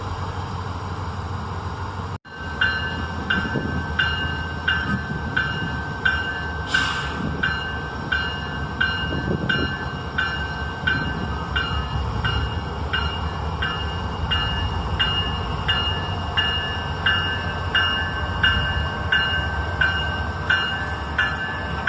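Railroad grade-crossing bell ringing in a quick, steady rhythm, activated as the freight train enters the crossing circuit, over the low rumble of the train starting to move. A short hiss sounds about 7 s in.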